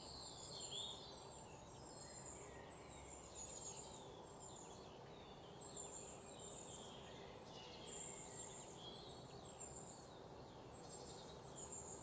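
Faint background of small birds chirping: short downward-sweeping chirps repeated every second or so, over a low steady room hiss.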